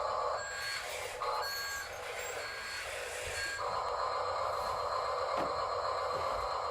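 Reversing beeper on an RC construction vehicle, sounding about four short beeps roughly a second apart, over the steady whine of its small electric drive motor. The beeps stop about halfway through and the motor whine rises.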